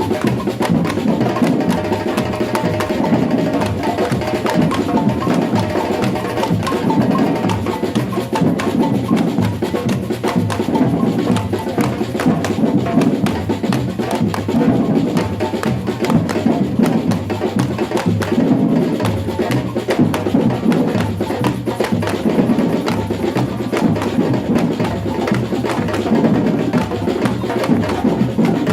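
Batucada samba drum group playing a continuous, driving rhythm, with deep drums under a dense pattern of quick strikes.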